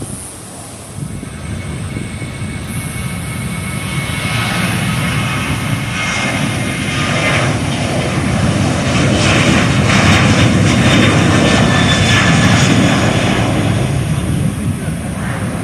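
Jet airliner engines running, a roar with a high whine that grows steadily louder, peaks about two-thirds of the way through, then eases slightly.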